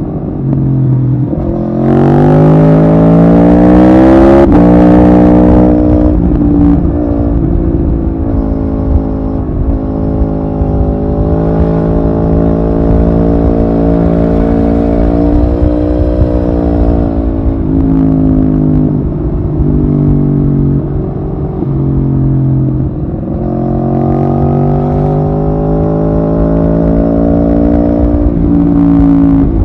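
Aprilia Tuono V4R's V4 engine pulling hard under a ride, its pitch climbing for a couple of seconds and dropping sharply at an upshift about four seconds in. It then runs at a fairly steady pitch with slow rises and falls, and climbs again near the end.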